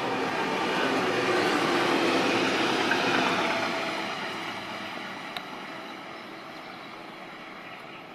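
An ICE high-speed train running past on the through lines and receding, an even rushing rail noise that is loudest in the first few seconds and then fades away steadily. A single sharp click about five seconds in.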